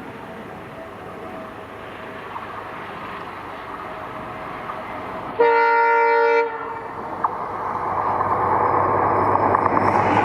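Indian Railways WDG4D diesel locomotive sounding one horn blast of about a second, halfway through. After it, the train draws near: a rumble with rapid wheel clatter that grows louder toward the end.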